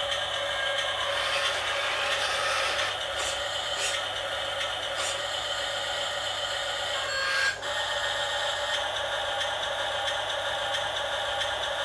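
Small electric motors and plastic gearboxes of RC toy construction vehicles whirring steadily, with a few short clicks and scrapes and a brief break about seven seconds in.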